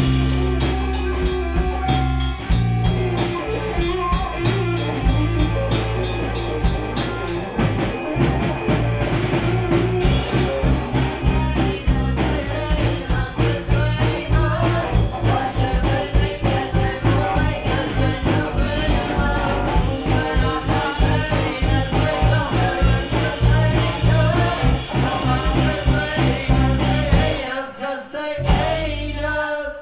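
Live gypsy rock band playing: drum kit, bass guitar, guitar and accordion with singing. Near the end the bass and drums drop out for about two seconds before coming back in.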